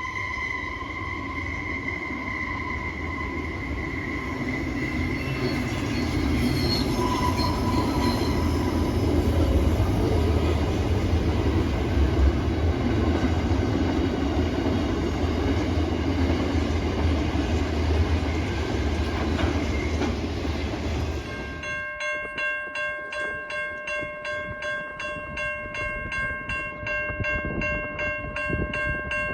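A train running past with a heavy rumble, its horn sounding briefly at the start. After an abrupt cut, a steady multi-tone ringing pulses about one and a half times a second.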